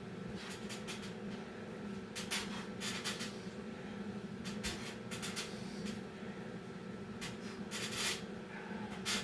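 A person doing burpees: bursts of hard breathing and the scuff and thump of hands and feet on the floor, coming in two clusters a few seconds apart, over a steady low hum.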